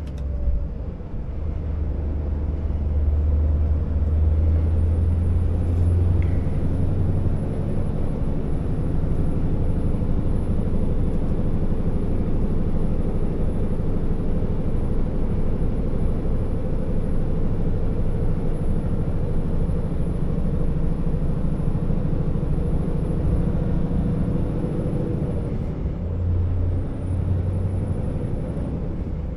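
Scania R650 timber truck's 16-litre V8 diesel engine pulling steadily on the road, a deep continuous drone. A thin high whine rises in early on, holds level, and drops away a few seconds before the end.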